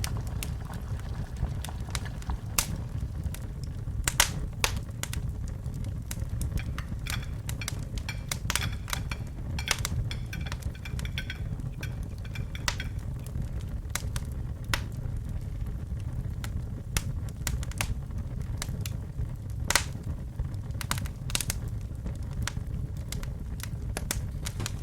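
Wood fire crackling in a fireplace: irregular sharp pops and snaps over a steady low rumble of the flames, with a faint high hiss for a few seconds near the middle.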